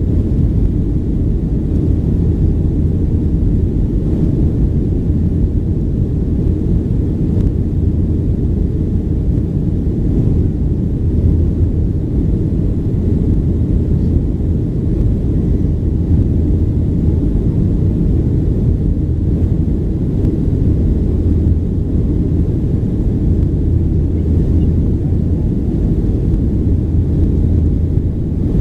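Boeing 737-800 cabin noise from a rear window seat: a steady low rumble of the CFM56-7B engines and airflow, even throughout.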